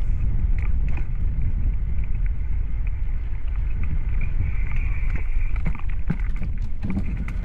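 Wind buffeting the microphone during a bike ride: a steady low rumble, with a few faint clicks scattered through it.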